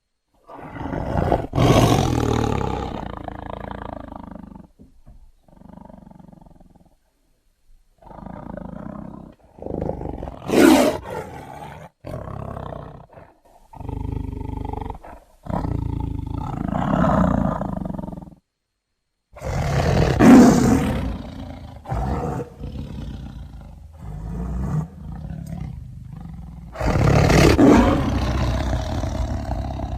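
Tiger growling and roaring: a string of rough calls, each one to three seconds long, broken by short silent gaps, some much louder than others.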